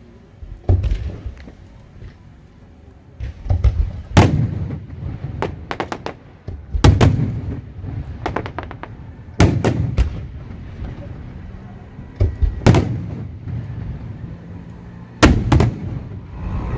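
Fireworks bursting overhead: six loud booms spaced about every two and a half to three seconds, each followed by a short rumble, with quick runs of smaller cracks between them.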